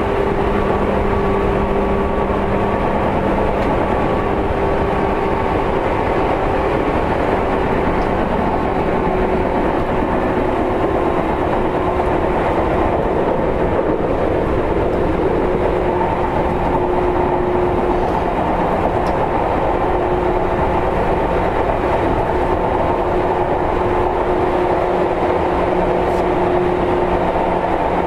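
Seibu 2000-series electric commuter train running at a steady pace: even rumble of the wheels on the rails, with a faint steady hum of a few held tones on top.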